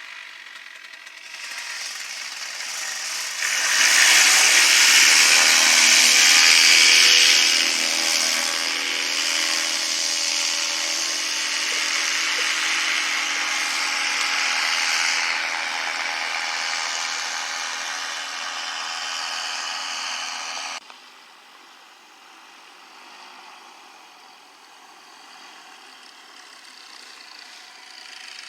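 A small engine running fast with a steady buzzing hum, loudest a few seconds in, then cutting off abruptly about two-thirds of the way through.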